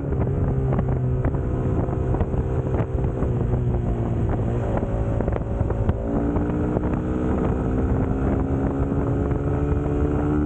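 Suzuki GSX-S150's single-cylinder engine running while the bike is ridden, with wind on the microphone. The engine note holds fairly level at first, then rises slowly through the second half as the bike picks up speed.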